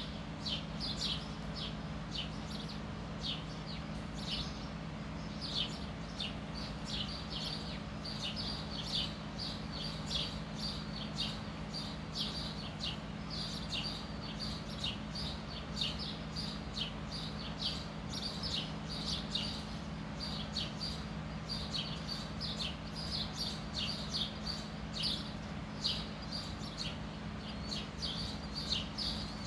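A small bird chirping over and over in short, high, falling chirps, with a steady low hum underneath.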